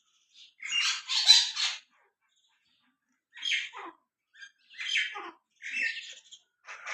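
Small birds chirping in short bursts: a cluster of calls about a second in, a pause, then more scattered chirps from about three and a half seconds on.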